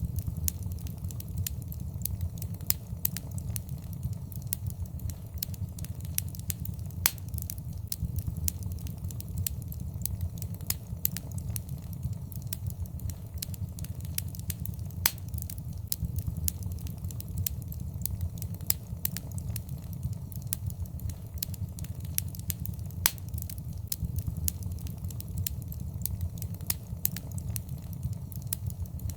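Fireplace fire crackling, with frequent irregular sharp pops over a steady low rumble of flame.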